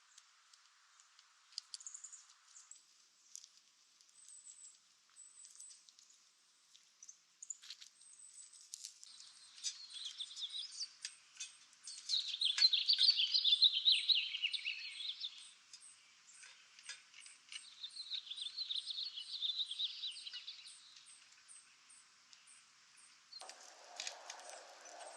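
Wild animal calls: a high, thin chirp repeating about twice a second, joined twice by bursts of fast chattering, the first one the loudest.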